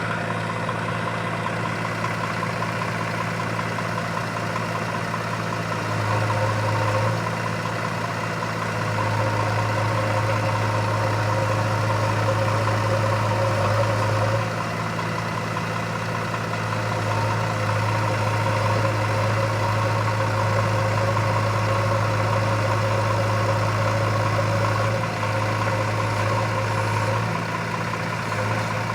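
Heavy diesel engine running steadily, getting louder under load in stretches of a few seconds and easing back in between.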